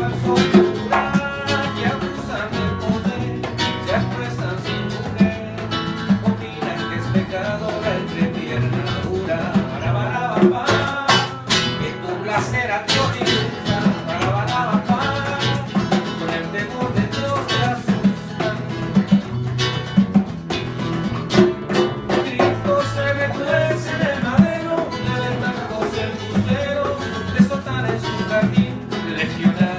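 Live band playing an instrumental passage led by guitar, with a steady bass line and strummed or struck attacks throughout.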